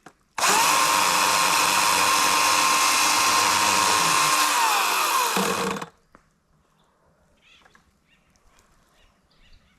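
EGO CS2005 20-inch cordless electric chainsaw running at a steady speed for about five seconds, then winding down with a falling whine as the trigger is released.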